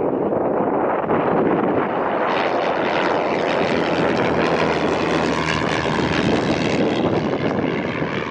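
Propeller airplane's engine running, a steady drone that grows brighter about two seconds in.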